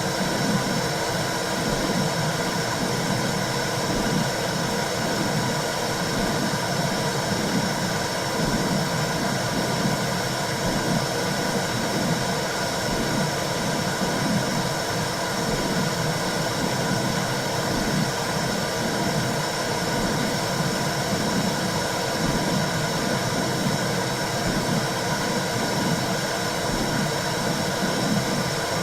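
Womb sound used as white noise for newborns: a steady, dense whooshing noise with a churning low rumble beneath it, unchanging throughout.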